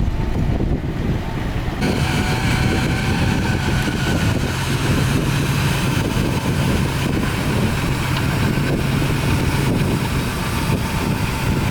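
Heavy diesel engine of earthmoving machinery, a bulldozer or dump truck, running steadily. About two seconds in, a faint higher whine and hiss join it.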